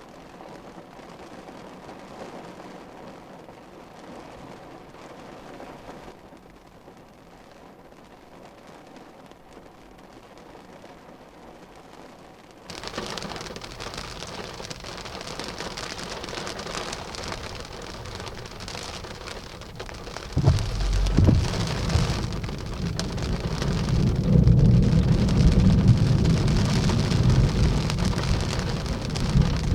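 Rain pouring onto a surface during a severe thunderstorm squall line, suddenly growing heavier about halfway through. In the last third a deep rumble of thunder builds and stays loud.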